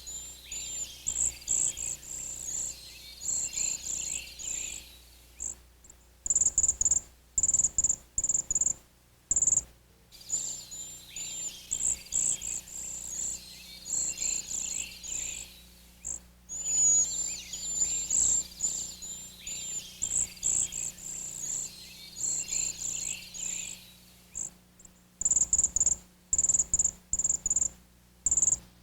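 Small songbirds calling: rapid, very high, thin chirps in quick clusters, with softer trilling notes lower down.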